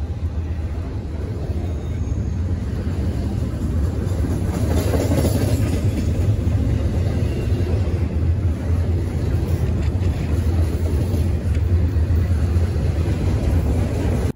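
Double-stack intermodal freight train rolling past close by: a steady rumble of steel wheels on the rails and well cars going by.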